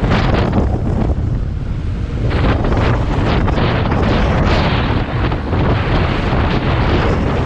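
Wind buffeting the microphone: a loud, gusting rumble, easing in the upper range for about a second after the start, then building again.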